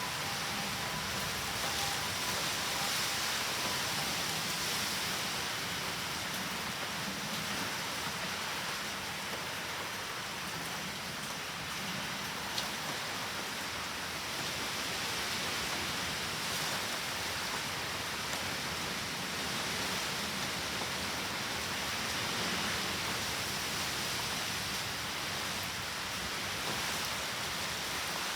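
Steady typhoon rain falling, an even hiss with no letup, with a single small tap about twelve seconds in.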